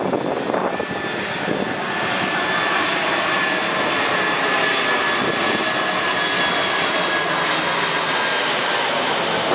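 Large jet airliner flying past, its engines making a steady loud rush with a thin high whine that grows stronger about two seconds in.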